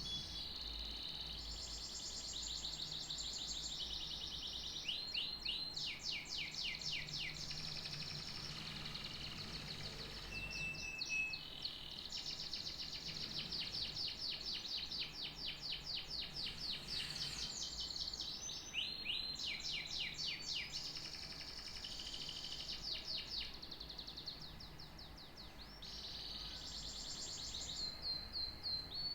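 Canary singing a long unbroken song: fast trills of repeated sweeping notes, one phrase after another, with a few short held whistled notes between them.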